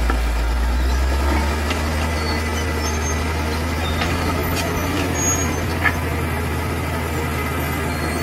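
Bulldozer's heavy diesel engine running steadily with a deep drone, with a few short knocks over it.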